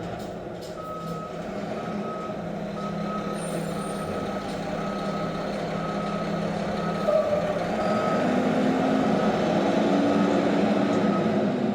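Front-loader garbage truck reversing: its backup alarm beeps about once a second over the steady run of the diesel engine, which revs up about eight seconds in.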